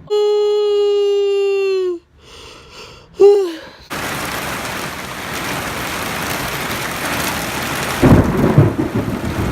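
Heavy rain and hail pelting the car as a steady hiss, with loud low rumbles of thunder coming in near the end. It is preceded by a loud held note lasting about two seconds and a short voiced sound.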